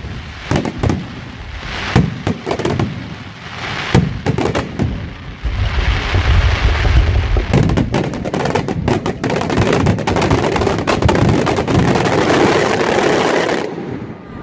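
Fireworks going off: a quick run of sharp bangs and pops, then from about five seconds in a dense, unbroken crackling barrage with bangs through it, which cuts off suddenly near the end.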